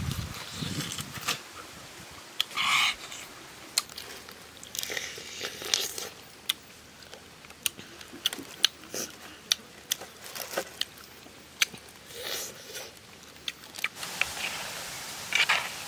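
A person chewing and biting grilled chicken, with many sharp, irregular wet clicks of lips and teeth and short crunching bursts.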